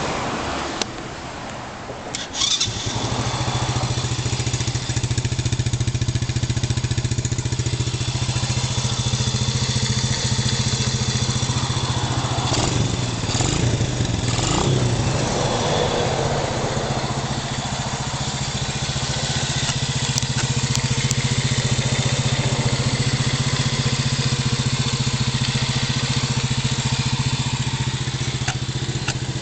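Speed Industries SPD100 quad buggy's small engine starting: it catches about two and a half seconds in and then keeps running steadily at idle.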